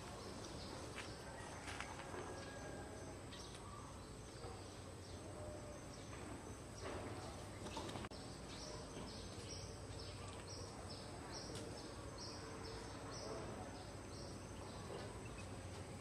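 Quiet outdoor background with short, high bird chirps that repeat about twice a second through the middle, over a steady faint high whine.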